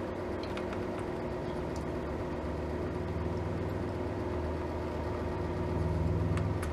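A steady low mechanical hum with several even overtones, with a few faint clicks over it; it swells slightly near the end.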